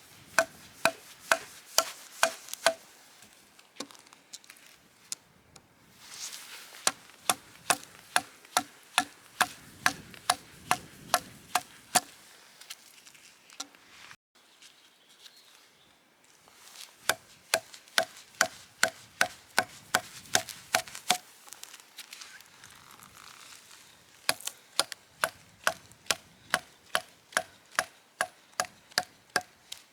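Wood being struck with sharp, evenly spaced blows, about two to three a second, in four runs separated by short pauses; each knock has a short ringing note.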